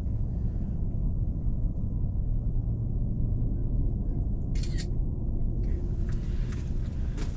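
A steady low rumble, with a brief scratchy sound a little past the middle.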